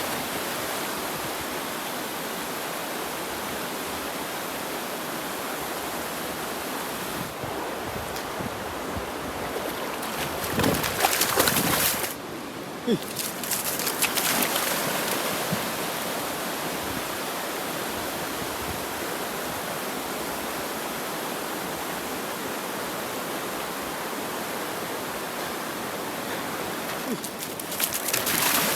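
Mountain river rushing steadily, a full, even wash of flowing water, with a few louder surges about ten to fourteen seconds in.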